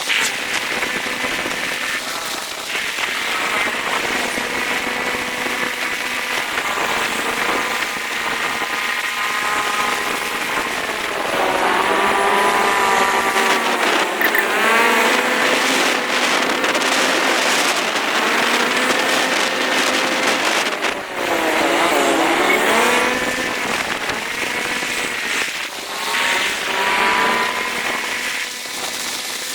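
Motorcycle engine running on the move, its pitch rising and falling several times as the rider speeds up and slows down, with road and traffic noise.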